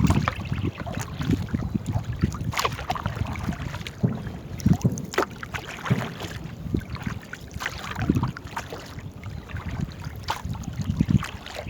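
Paddles splashing in river water as a small boat is paddled, irregular strokes over a low rumble.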